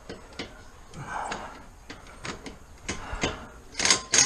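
Hand tool clicking and clinking against metal while it is worked onto the small 10 mm bolt of the ABS wheel-speed sensor at a car's front wheel hub. The clicks and knocks come irregularly, with the loudest cluster near the end.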